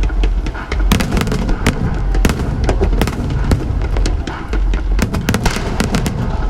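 Fireworks bursting overhead: a fast, irregular run of sharp bangs and crackles, with music playing underneath.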